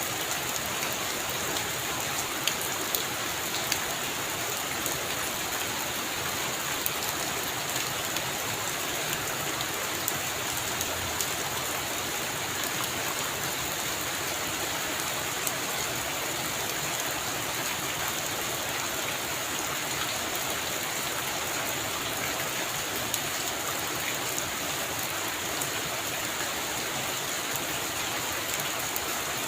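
Heavy rain falling on a roof: a steady hiss with scattered sharp drop taps.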